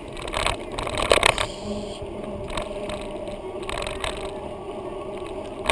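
Riding noise picked up by a camera in a homemade bicycle mount: a steady low rumble with rattling and clicking from the mount, sharpest about a second in.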